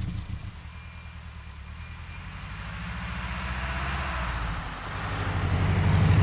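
Subaru Leone's flat-four boxer engine with its lumpy, pulsing "doro-doro" rumble. The car pulls away and the engine builds steadily, dips briefly about three-quarters of the way through as if shifting gear, then pulls harder again.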